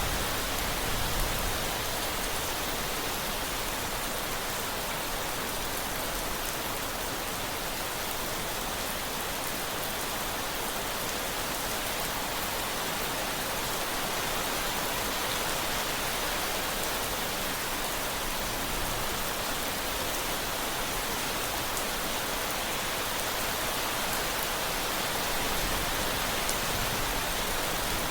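Steady rain falling: a dense, even hiss with no change in level.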